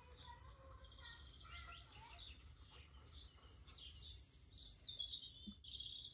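Faint garden birdsong: many short chirps and twittering calls, with a buzzy trill about five seconds in, over a low steady background rumble.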